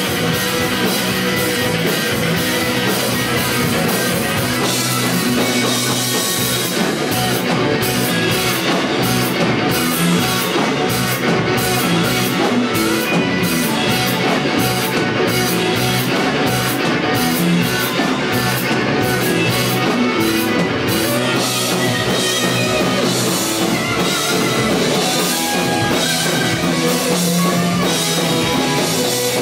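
Rock band playing an instrumental passage: guitars and a drum kit keeping a steady beat, with no singing.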